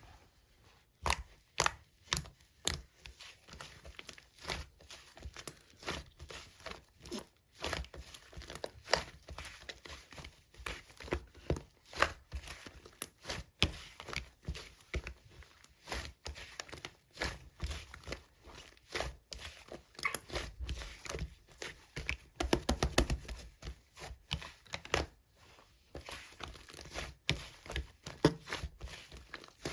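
Slime being squished and stretched by hand, giving a dense, irregular run of sharp clicks and crackling pops, with a quicker flurry of them a little past the middle.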